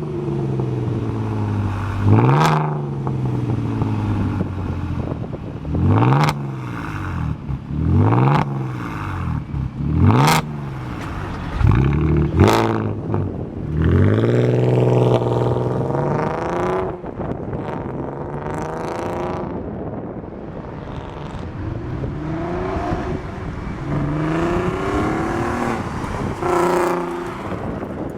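Audi TT 3.2's VR6 engine through a non-resonated stainless cat-back sport exhaust, revved in a series of quick, sharp throttle blips that each fall straight back to idle, then one longer rev, then lighter blips over a steady idle.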